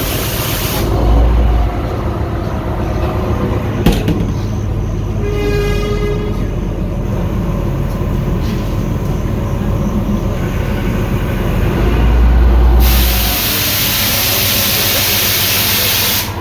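Inside a moving passenger train coach: the steady rumble of the train running on the rails. A pitched tone sounds for about two seconds near the middle, and a loud hiss comes in for the last few seconds.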